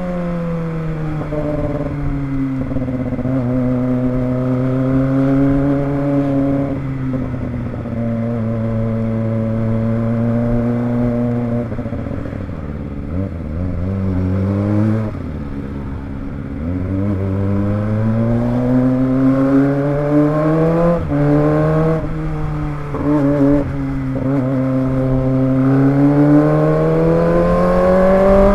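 Kawasaki ZX25R's 250 cc inline-four engine under way, ridden on the road: it holds a fairly steady pitch for several seconds, drops in pitch about halfway through as the bike slows, then climbs again in steps broken by gear changes, running higher toward the end.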